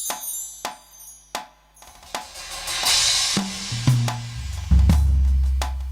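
Music: a drum kit plays a few sharp hits and a cymbal wash, then bass and kick drum come in, the start of a gospel band's backing.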